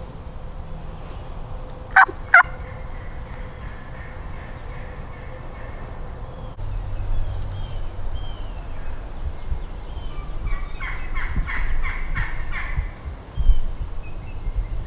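Wild turkey calling: two sharp, short notes close together about two seconds in, then near the end a run of about seven quick, evenly spaced notes lasting a little over two seconds. Faint chirps of small songbirds sound in between.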